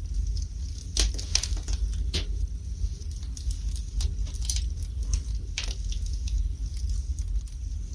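Wood fire burning in a fireplace, crackling with irregular sharp pops, the loudest about a second in and again around two seconds, over a low steady rumble.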